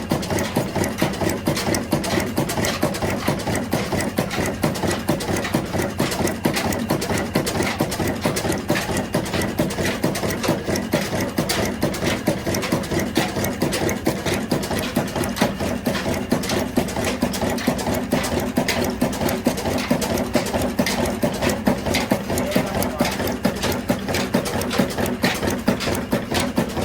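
An 18 hp diesel engine running steadily with an even, rapid knocking beat.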